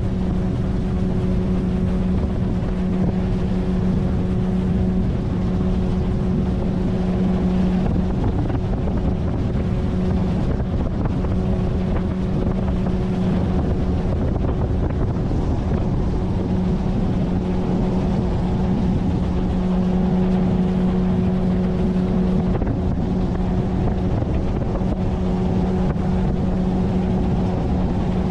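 A 9.8 hp outboard motor on an inflatable PVC boat running steadily at cruising speed, its hum holding one even pitch throughout, with water rushing along the hull and some wind on the microphone.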